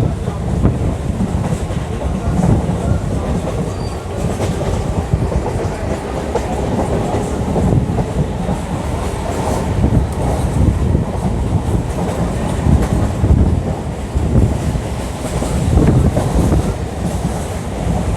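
Old EMU local train heard from inside the coach while running: a steady low rumble with wheels clicking over rail joints.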